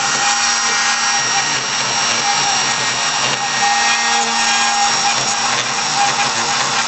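Mini CNC machine running: a steady, power-tool-like whir with a higher tone that keeps breaking off and coming back.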